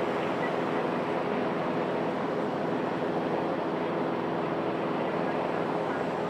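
Light single-turbine helicopter running steadily: a constant rushing noise with a steady hum under it, unchanging throughout.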